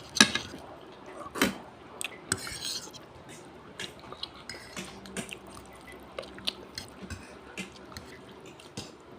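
Eating utensils clicking and scraping against a plate or bowl during a meal of palabok noodles, with scattered short clinks, the two loudest near the start and about a second and a half in.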